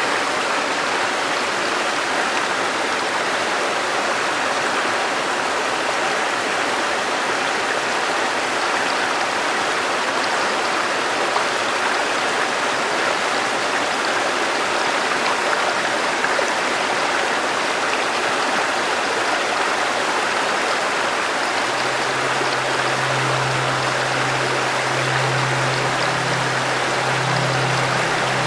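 A river flowing steadily, a continuous rush of running water. A low, soft tone comes in about three quarters of the way through and holds.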